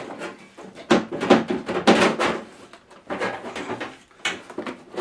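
Irregular knocks, clunks and rattles of the Flavia Brewer S350 coffee machine's casing and opened panel being handled and turned around on a surface, busiest about a second in.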